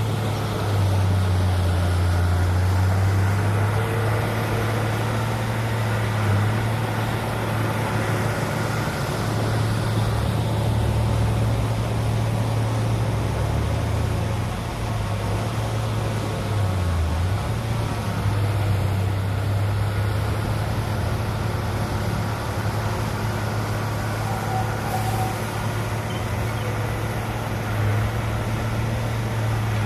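Heavy diesel engine of earthmoving machinery running steadily under load, its low hum dipping briefly in pitch twice.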